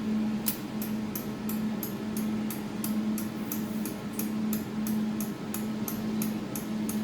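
Jewelry laser welding machine's position-adjustment knob being turned, giving even clicks about three a second as the laser support is moved back, over a steady low hum from the machine.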